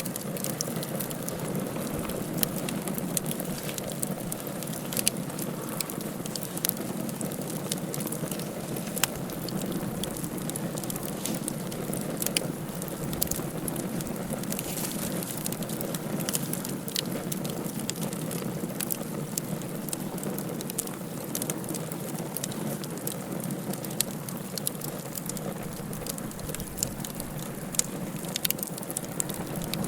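Wood fire burning in a fireplace, crackling with frequent irregular sharp pops over a steady low rushing noise.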